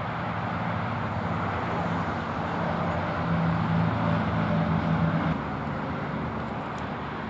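Road traffic noise with a vehicle's engine hum that swells for a couple of seconds and drops off about five seconds in.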